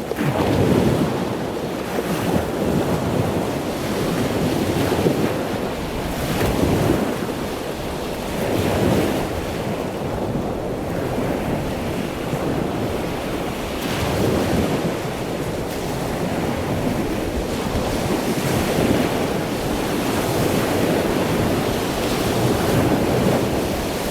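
Ocean surf washing in, swelling and easing every few seconds, with wind buffeting the microphone.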